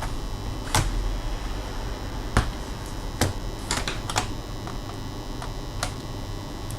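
Irregular sharp clicks and taps, about eight spread over a few seconds, from a laptop's plastic case and small parts being handled during disassembly, over a steady low hum.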